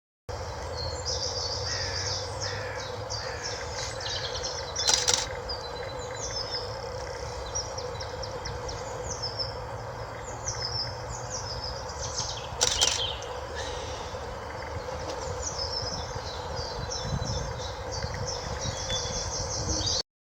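Wild songbirds singing and chirping continuously, with two brief, much louder calls, one about five seconds in and one about twelve and a half seconds in.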